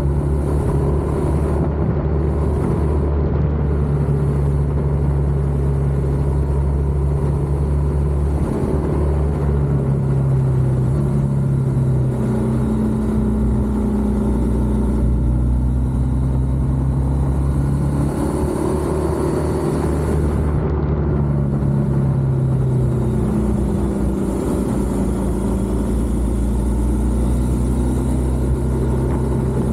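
BMW R1200GS boxer-twin engine running under way, heard from a camera on the bike, its pitch shifting a few times as the throttle is opened and closed, with wind and road rush.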